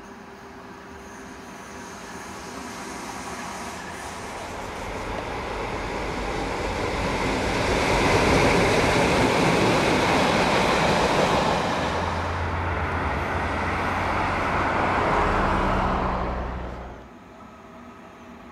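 Freight train passing close by: the rumble and clatter of its wheels on the rails builds over several seconds, stays loud and steady, and a low steady hum joins it in the second half. The sound cuts off abruptly near the end.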